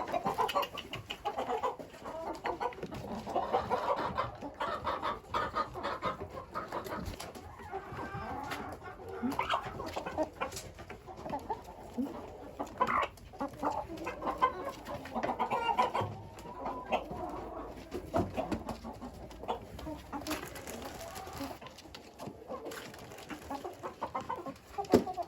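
A flock of chickens clucking, many short calls overlapping continuously, with a few sharp taps here and there.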